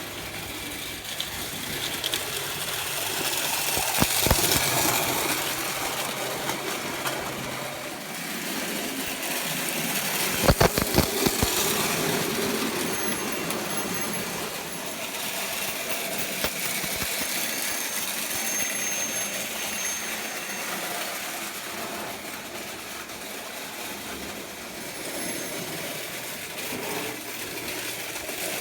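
Prewar Lionel O gauge train with early freight cars running on tinplate track: a steady whirring of motor and wheels, with sharp clicks about four seconds in and a quick cluster of clicks around ten to eleven seconds.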